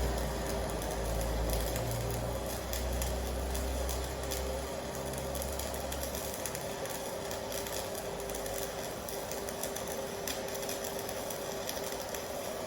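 Welding arc from a 200 A AC/DC inverter welder, crackling and hissing steadily over a constant buzzing tone. A low rumble fades out about five seconds in.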